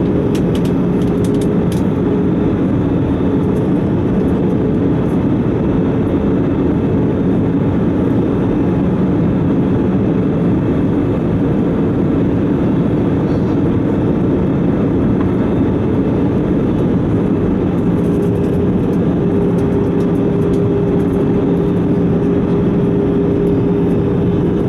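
Airbus A320 cabin noise in flight on approach: a steady rush of jet engines and airflow, with a few constant low hums underneath.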